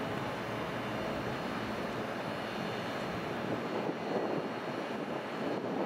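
LNER Intercity 225 electric train moving slowly through the station: a steady rumble with a faint high whine.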